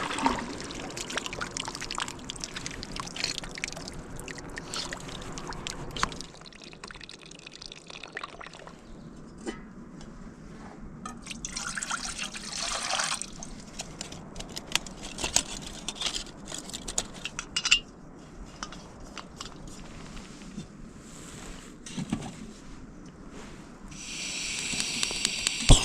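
Water being poured and trickling, among scattered clicks and knocks of camp cooking gear being handled; near the end a steady hiss starts.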